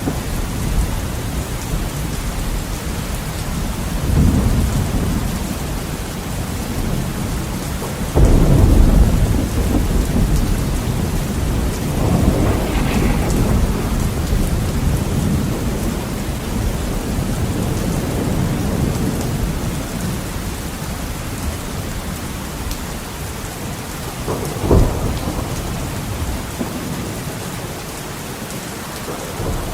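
Heavy rain beating steadily on a window, with rolling thunder: low rumbles about four and twelve seconds in, a sudden loud clap about eight seconds in that rolls on for several seconds, and a short sharp clap near the end.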